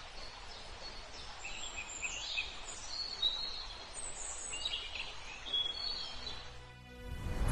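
Birds giving short, high chirping calls over a steady outdoor noise haze; music fades in near the end.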